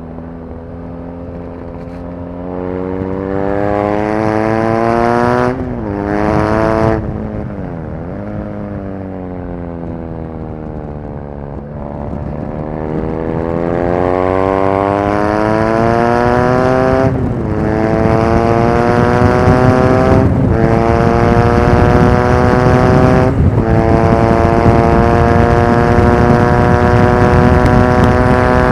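BMW R nineT Racer's 1170 cc air/oil-cooled boxer twin, heard raw onboard at the track: revs climb, drop briefly and die back off the throttle in the first several seconds, then the bike pulls hard, upshifting three times with short breaks in the note, and holds high revs near the end.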